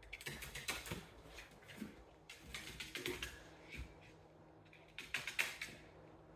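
Light, irregular clicking and tapping in small clusters, a pet parrot moving about on a hard surface.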